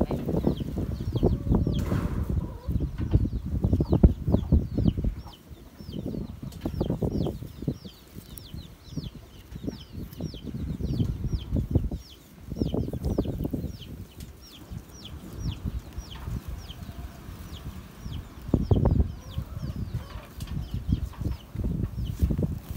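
A bird peeping over and over in short falling notes, two or three a second, over louder low rubbing and handling noise close to the microphone that comes and goes as a comb is worked through a dog's fur.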